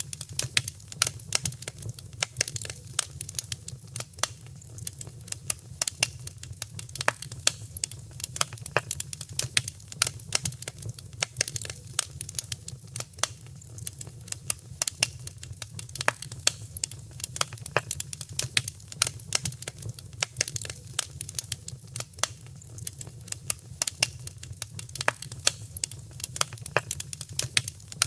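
Wood fire crackling: dense, irregular sharp pops and snaps over a steady low rumble of the flames.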